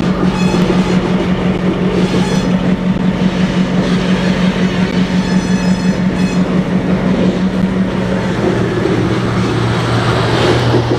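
A freight train on the Southern Railroad of New Jersey moving past, with a diesel locomotive's engine drone and a rhythmic pulsing from the rolling train. The drone drops to a lower pitch about eight seconds in, and there are a few brief high-pitched squeals along the way.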